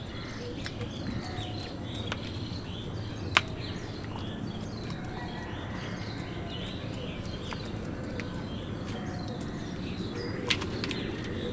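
A flock of birds chirping and calling over one another, with a few sharp clicks now and then.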